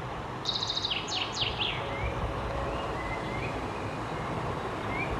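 Birds chirping over a steady background hiss: a quick run of rapid high trills sliding downward in the first two seconds, then a few short rising chirps.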